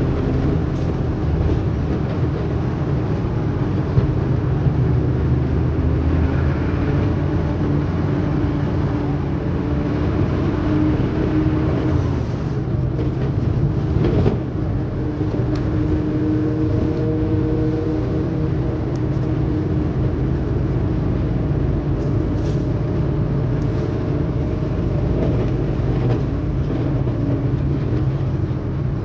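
Inside a moving bus: a steady low rumble of engine and road, with the engine note shifting now and then as the bus speeds up and slows.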